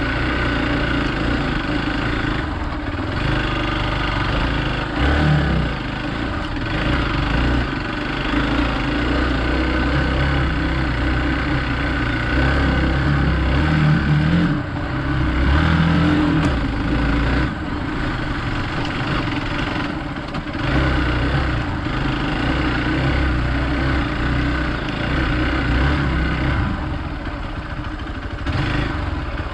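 Hero Xpulse 200 motorcycle's single-cylinder engine running under riding load off-road, its pitch rising and falling with the throttle, louder around halfway through.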